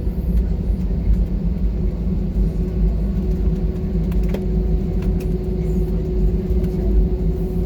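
Airbus A320 jet engines running, heard from inside the passenger cabin: a steady, loud low rumble with a constant hum above it.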